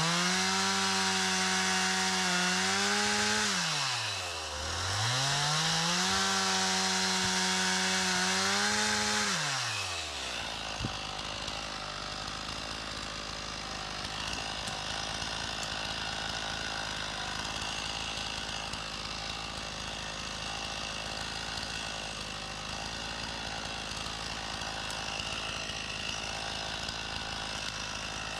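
Stihl MS 391 two-stroke chainsaw run up to full throttle twice, each burst about four seconds long with a brief drop in between. About ten seconds in it falls back to a low, steady idle.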